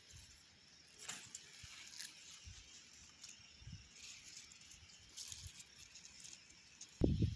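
Quiet outdoor nature ambience: a faint steady hiss of running water with a few faint high bird chirps. Loud low rumbling bursts start just before the end.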